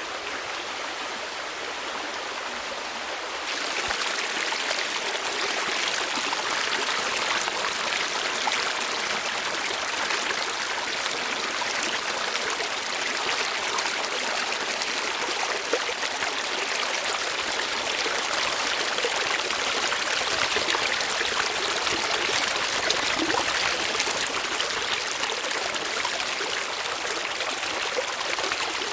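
Running water, a steady, even rush that gets louder and brighter about three and a half seconds in, then holds.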